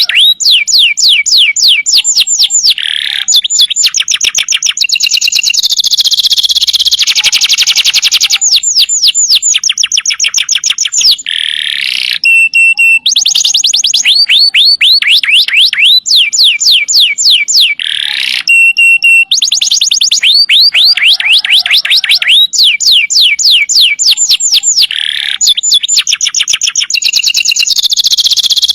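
Domestic canary singing a loud, continuous song of long, fast trills. Runs of quick repeated notes, each sweeping downward, shift to a new phrase every second or two with hardly a pause.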